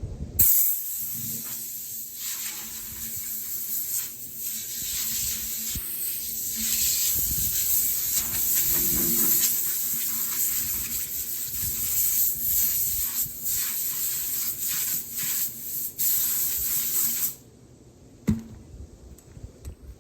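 Power wire wheel scouring a steel truck rim clean: a loud, harsh, flickering hiss that starts suddenly and cuts off near the end, with a faint steady motor hum underneath.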